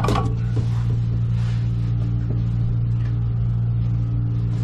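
Steady low hum of a running machine, even and unchanging, with a short sharp noise right at the start.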